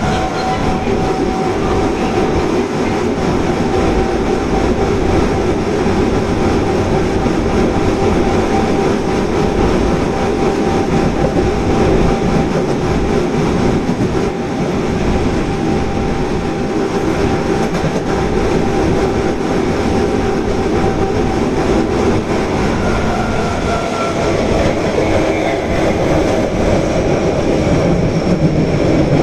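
Osaka Metro Tanimachi Line subway train running between stations, heard from inside the car. A steady rumble of wheels on rail with a held motor whine throughout.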